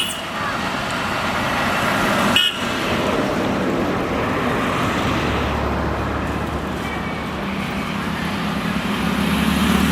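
Road traffic going by: a steady wash of vehicle noise, a brief sharp sound about two and a half seconds in, and the low hum of an engine that comes in midway and grows louder near the end as a vehicle approaches.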